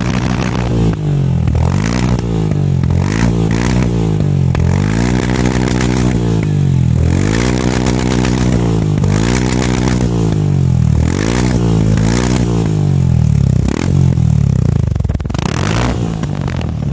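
Royal Enfield Himalayan single-cylinder engine breathing through an aftermarket Powerage exhaust, revved over and over: the pitch climbs and drops back every second or two, with a few longer holds.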